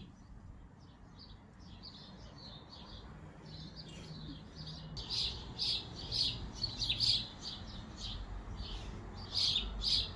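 Small birds chirping in a quick run of short high chirps that grow louder after about five seconds, over a low steady background rumble.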